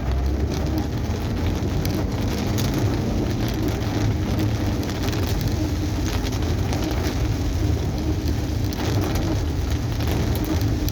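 Rain pattering on a car's roof and windscreen, heard from inside the moving car, over a steady low rumble of engine and tyres on the wet road.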